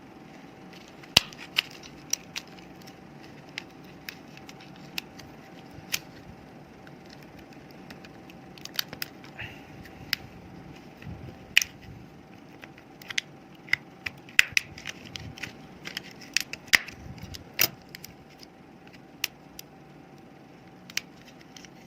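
Plastic casing of a laptop battery pack being pried apart with a tool: irregular sharp clicks and snaps, busiest in the second half.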